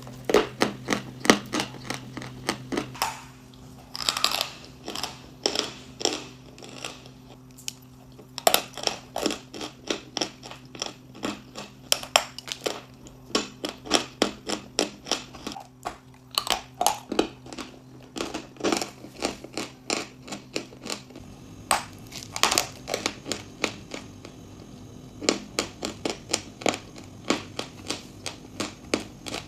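Dry chalk and clay crunching: rapid crisp cracks in bursts, with short pauses between them, over a faint steady hum.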